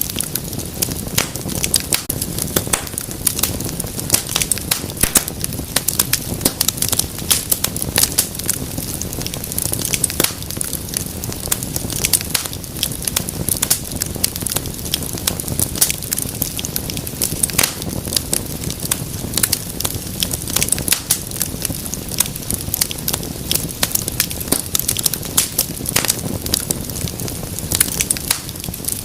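Wood fire burning, with dense, irregular crackles and pops over a low steady rumble of flames.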